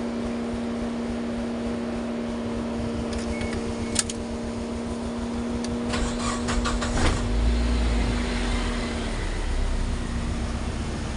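Clicks from the Suzuki Escudo's ignition key switch, just lubricated with oil because it stuck, then the engine starts and runs with a low rumble from about seven seconds in. A steady hum is there under the first part.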